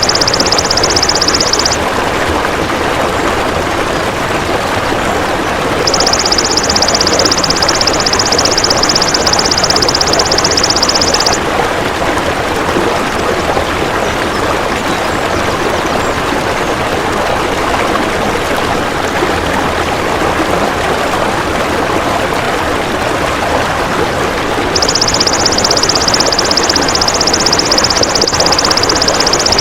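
Belalang emas (golden grasshopper) insect buzzing in a high, rapidly pulsed trill, in three bouts of about five seconds each with pauses between. Under it runs a steady rushing of flowing water.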